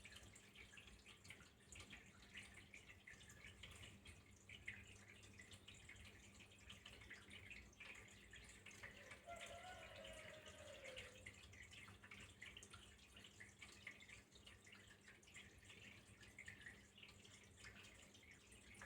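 Faint water trickling and dripping, with many small irregular drip sounds, and a faint short falling tone about halfway through.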